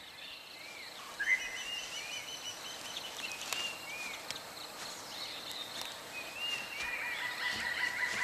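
Forest ambience full of small birds chirping in short repeated arched notes, with a louder rising call about a second in.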